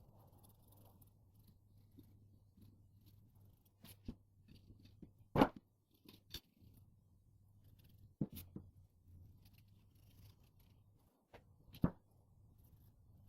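A few scattered sharp clicks and knocks, the loudest about halfway through, over a faint steady hum.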